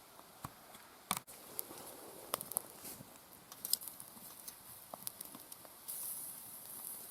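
Scattered crackles and sharp clicks, then a sizzling hiss that starts suddenly near the end, as beef liver begins cooking over a campfire.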